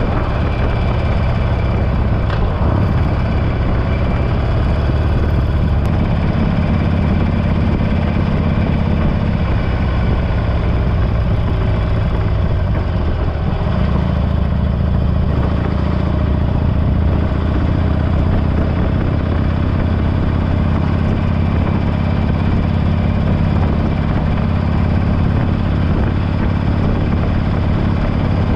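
Harley-Davidson Forty-Eight's air-cooled V-twin running steadily through a Belles Performance aftermarket exhaust, a deep even engine note with no revving.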